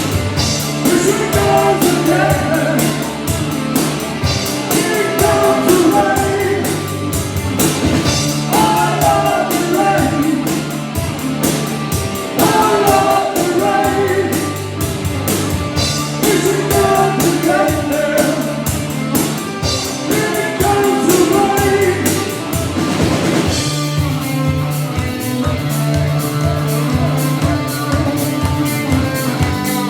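Rock band playing live: a fast, steady drum beat under electric guitar and bass, with a sung vocal line.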